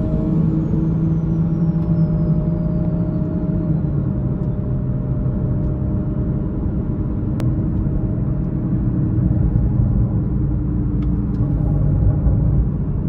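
Toyota GR Supra's B58 turbocharged inline-six running while cruising, heard from inside the cabin with steady road rumble. The engine note eases slightly down in pitch over the first few seconds. A faint high whine falls in pitch over the first four seconds, and there is a single click about seven seconds in.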